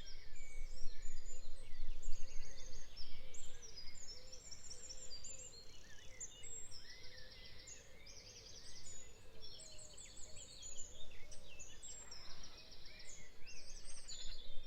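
Birdsong: several birds chirping, with repeated rapid high trills, over a faint outdoor background.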